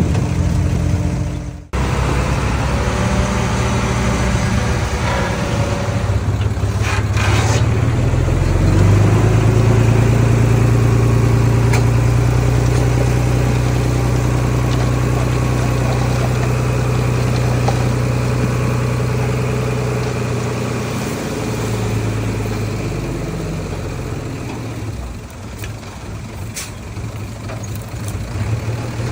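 Diesel engine of heavy earthmoving machinery running throughout. It picks up about eight seconds in, holds a steady working note, then eases off near the end.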